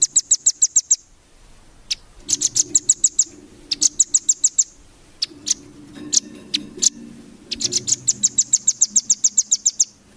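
A songbird singing in fast trills of sharp, high repeated notes, about seven or eight a second. The phrases run about a second each, with a longer run near the end.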